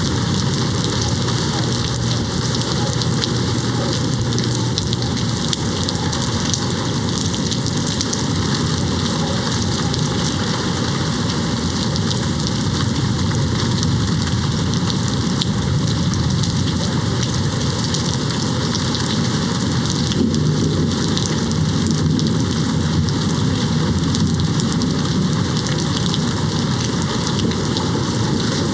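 Steady heavy rain pattering on a window, with a low rumble of distant thunder near the start and again a little past the middle.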